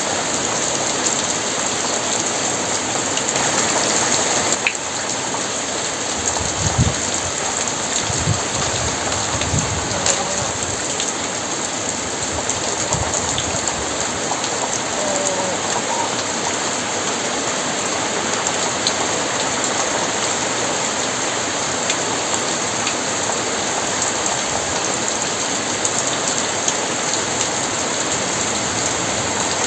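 Very heavy rain falling steadily, with a few low rumbles of thunder about a quarter of the way in.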